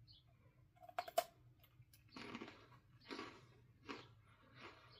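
Biting into a crispy coconut roll: a sharp snap about a second in, then four crunchy chews spaced a little under a second apart.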